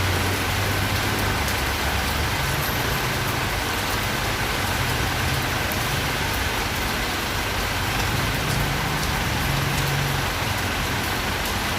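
Heavy rain falling steadily, with a low engine hum from road traffic underneath that swells and fades.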